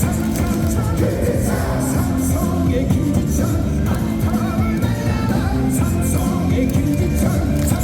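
Baseball stadium cheer song played over the loudspeakers, with the crowd singing and shouting along to a steady beat.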